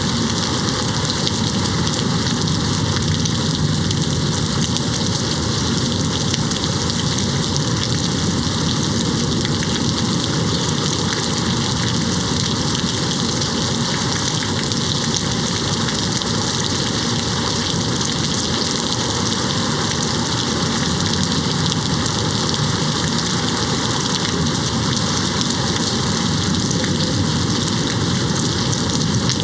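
Steady rain hitting a window, an even, unbroken hiss of drops with no thunder.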